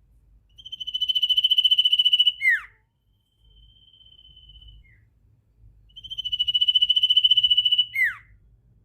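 A sirtu songbird singing a rapid, buzzing trill at a high, steady pitch. Each trill lasts about two seconds and ends in a quick downward slur, and it comes twice, with a fainter trill between. This is the fast trilling song that bird keepers call 'ngetir'.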